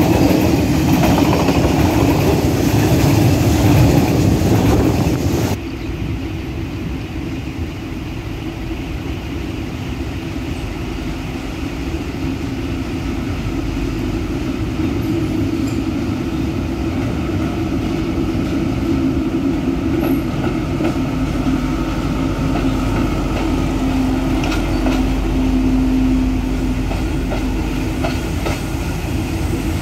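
A train rolling past, its wheels clattering over the rails. About five seconds in the sound drops off abruptly to a quieter, steady rumble with a low drone.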